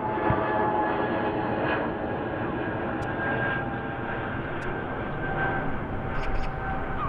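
Jet airliner's engines running, a steady rumble with a high whine.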